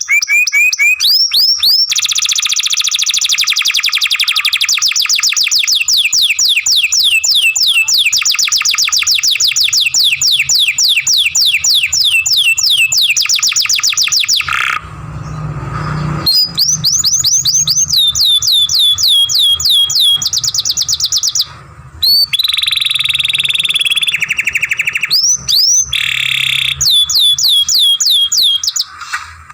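Domestic canary singing a long, loud song of rapid trills: fast runs of repeated high notes that each sweep downward, broken by a short lower, rougher passage about halfway through and a few brief pauses near the end.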